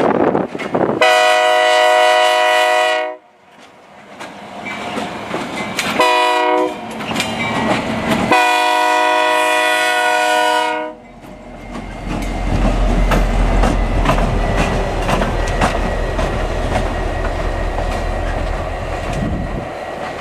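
EMD GP50 diesel locomotive's horn sounding a long blast, a short blast and a long blast, a multi-note chord, for the grade crossing. Then the locomotive passes close by with a low engine rumble and the steady clickety-clack of its wheels over the rail joints.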